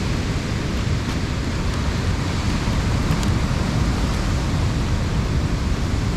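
Ocean surf washing against a rocky shore with wind on the microphone, a steady rush of noise that grows a little louder about halfway through.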